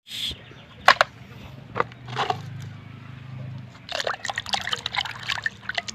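Water splashing and trickling as a muddy toy truck is washed by hand, with a few sharp knocks about one and two seconds in; the splashing gets busier in the last two seconds.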